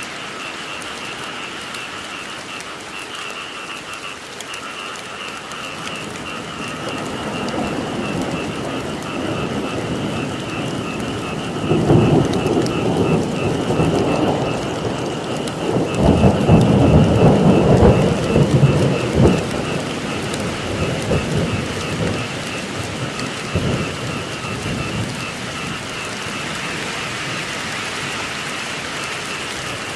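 Steady rain with a chorus of frogs calling steadily throughout. A long roll of thunder builds from about six seconds in, loudest around twelve seconds and again from sixteen to nineteen seconds, then dies away.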